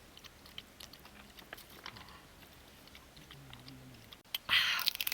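Chewing and crunching on cooked stone crab, with small clicks of cracking shell throughout and a louder crackling crunch about four and a half seconds in.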